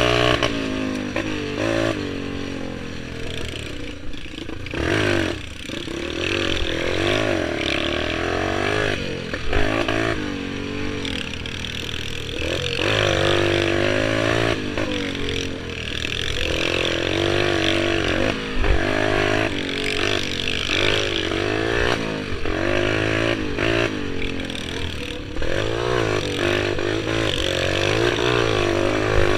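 Pit bike engines being ridden hard, the pitch repeatedly rising and falling as the throttle is opened and closed.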